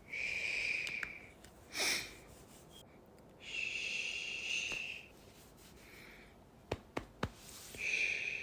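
Slow breathing close to the microphone: a few long breaths and one short, sharp one, with three quick soft clicks near the end.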